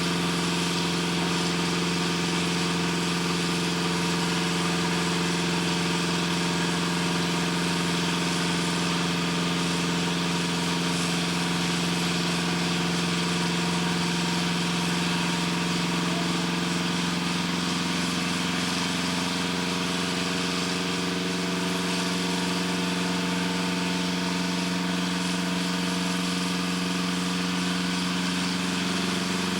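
Machinery running steadily: a constant engine-like drone with a strong low hum, its upper tones shifting slightly about two-thirds of the way through.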